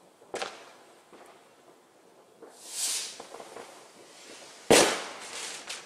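Fireworks going off: a sharp bang about a third of a second in, a hiss that swells and fades around the three-second mark, then the loudest bang near five seconds followed by about a second of smaller cracks.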